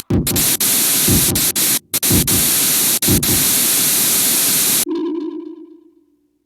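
Pachinko machine sound effect: a loud burst of static-like hiss, cut off abruptly several times, then about five seconds in a single low ringing tone that fades away to silence.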